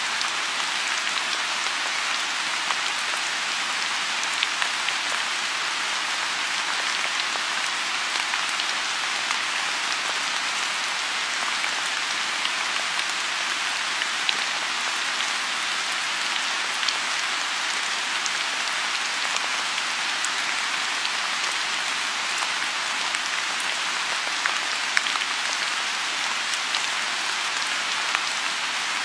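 Steady rain falling on a lotus pond: an even hiss with many sharp single drops standing out, a few louder than the rest.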